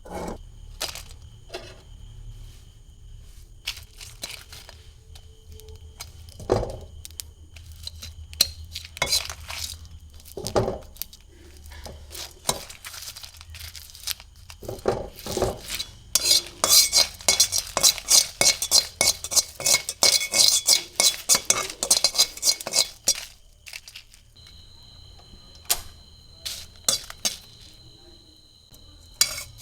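Kitchen utensils clinking and scraping against dishes, in scattered knocks and then a long run of quick, rapid strokes in the middle.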